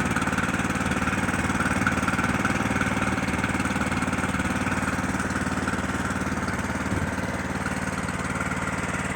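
Neva MB23 walk-behind tractor's single-cylinder engine running steadily with an even, fast firing beat.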